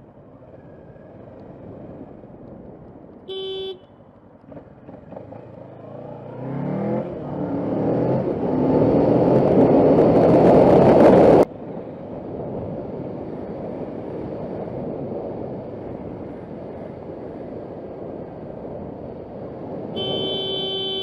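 A car horn toots briefly. A motorcycle engine then revs up through the gears, rising in pitch and getting louder, and cuts off suddenly. After that come steady road and wind noise and, near the end, a long horn blast.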